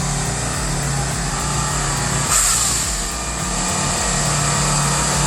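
Diesel engine of a heavy earthmoving machine running steadily, with a short burst of hiss about two seconds in.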